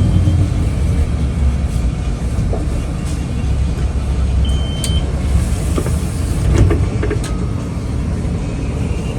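Steady low rumble from inside a moving Toronto transit vehicle, with scattered clicks and rattles and a brief high tone about halfway through.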